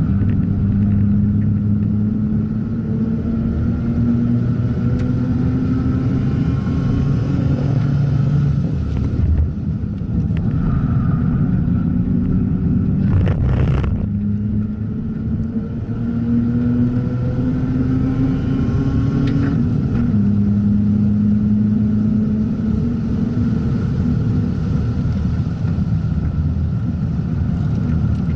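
Mazda RX-8's two-rotor Renesis rotary engine running hard on track, its pitch climbing through the revs and dropping back at gear changes several times. A short loud burst of noise comes near the middle.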